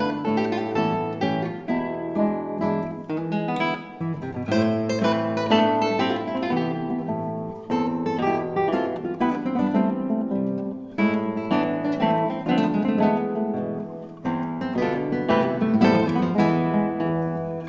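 Three classical guitars playing together: plucked notes and chords in a flowing, continuous piece of chamber music.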